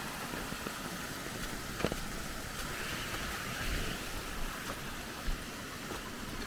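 Creek water rushing steadily, with a single light knock about two seconds in.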